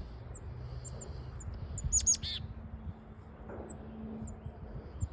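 Chickadees calling: scattered short, thin, high chips, and about two seconds in a quick call of two high notes followed by lower, buzzier notes, the chick-a-dee call.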